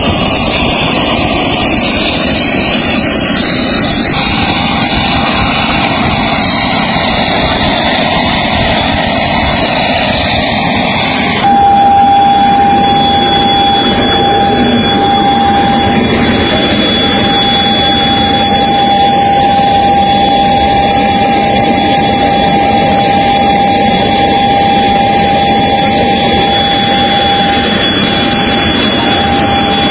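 Jet aircraft engines running loud and steady. About eleven seconds in, a steady high whine sets in sharply.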